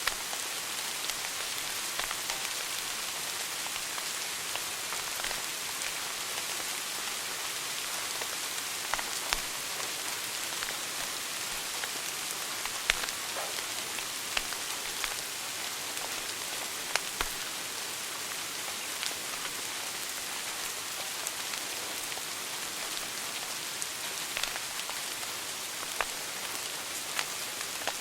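Wood fire burning in a fireplace: a steady hiss with scattered sharp crackles and pops from the burning logs, a few of them louder than the rest.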